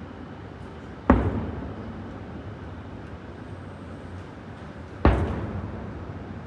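Two aerial fireworks shells bursting about four seconds apart, each a sharp bang that dies away over about a second.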